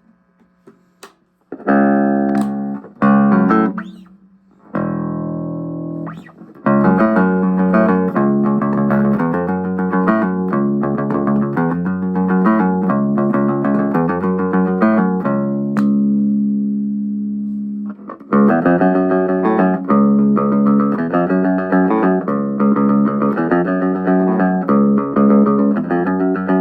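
Danelectro '63 electric bass being played: a few separate plucked notes, then a steady run of repeated notes, one note held for a couple of seconds about two-thirds of the way in, and the run of notes again.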